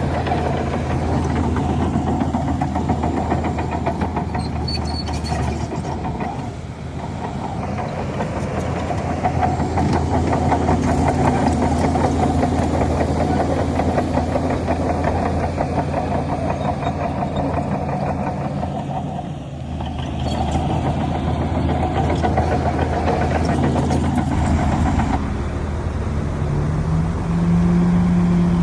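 Heavy diesel engines of earthmoving machinery running. The engine note shifts and dips briefly twice, and near the end a higher engine tone rises and holds.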